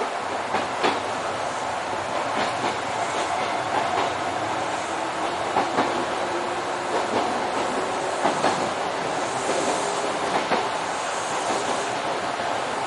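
Kintetsu electric commuter train running along the line, its steady rolling noise broken by sharp wheel clicks over rail joints at uneven intervals.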